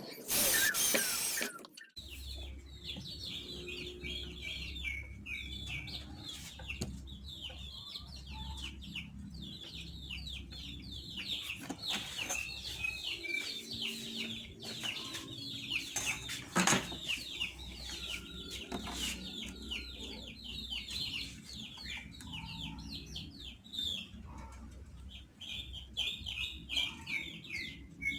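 Many birds chirping rapidly and continuously, over a low steady hum. A loud burst of noise fills the first couple of seconds.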